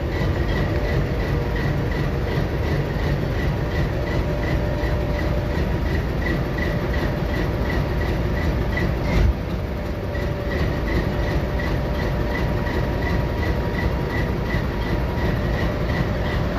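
Freight train diesel locomotives running with a steady rumble, over a high ping that repeats evenly about three times a second and breaks off briefly about nine seconds in.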